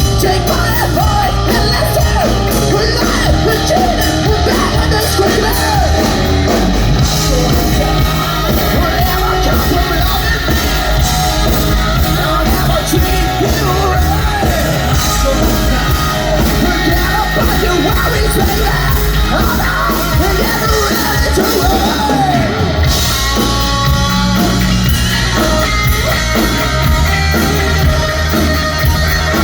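Hard-rock band playing loud and live, with a singer's voice over the band.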